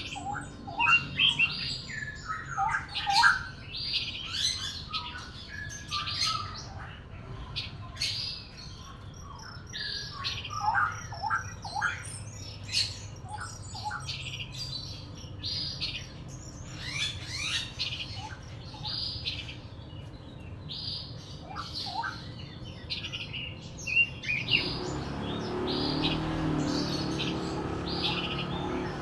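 Songbirds chirping and calling, with short, sharp high notes repeated about once a second over lower warbling phrases. Near the end a steady low rushing noise comes in underneath.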